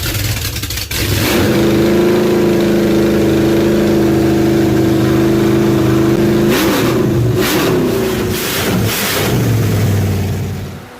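Freshly built 388 cubic inch small-block Chevy V8 (60-over stroker with Vortec heads and a Proform carburetor) running on its first start-up: it picks up about a second in and holds a steady fast speed, then its revs rise and fall a few times. It shuts off near the end.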